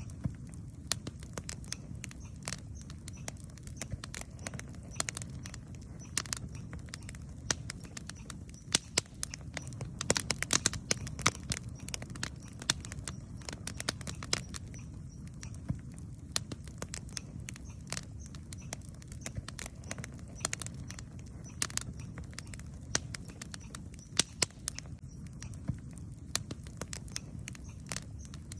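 Wood campfire burning: a steady low rumble of the flames with irregular sharp crackles and pops from the burning wood, coming thickest about a third of the way in.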